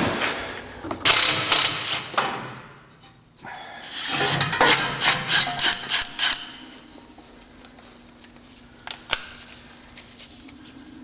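Metal clanking and rattling of hand tools and loosened exhaust hardware under a car, with a run of quick ratchet-like clicks about four seconds in.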